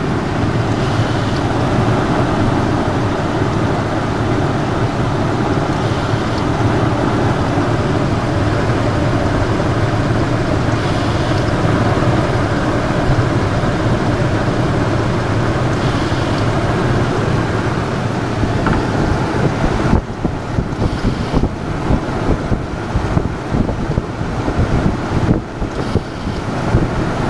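1997 Ford F-150 engine running steadily. From about 20 seconds in, the sound turns choppy with wind buffeting the microphone.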